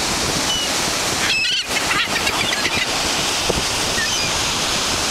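Steady wash of ocean surf mixed with wind. A few faint, short high calls come through it, clustered between about a second and a half and three seconds in.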